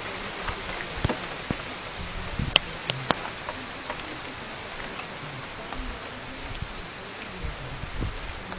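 Rain falling steadily, an even hiss with scattered sharp drop impacts; the loudest are a couple of clicks about two and a half to three seconds in.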